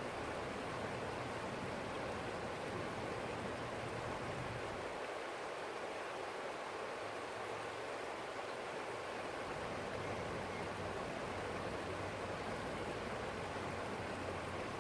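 Forest stream flowing, a steady even rush of water. A low rumble under it fades out for a few seconds near the middle and comes back.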